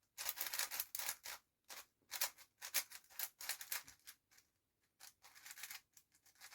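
Magnetic speedcube being turned by hand: quick bursts of clicking and rattling as the layers snap past the magnets, with short pauses between turning sequences.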